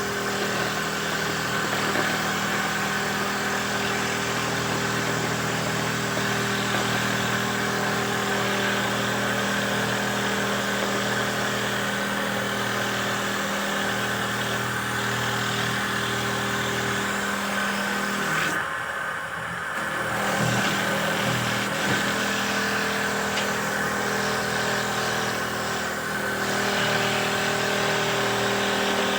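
Handmade wooden dowel machine running steadily, a motor hum under an even hiss. About two-thirds of the way through, the hiss drops out for a second or so, then resumes.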